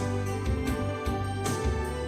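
Flute playing a melody in sustained notes over a recorded accompaniment with deep bass and a few percussive hits.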